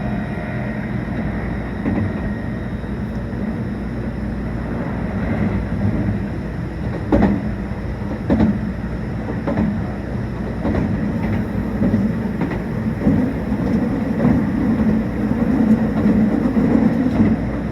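Meitetsu 1800 series electric train running at speed: a steady rumble with a low hum, and the wheels clacking over rail joints several times in the middle.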